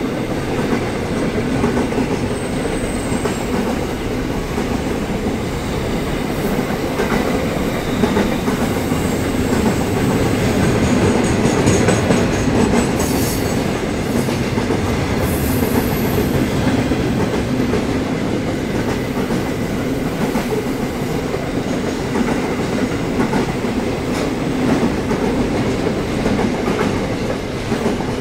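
Container freight train rolling past: steady rumble and clatter of the wagons' wheels over the rails, with a couple of brief high squeals about halfway through.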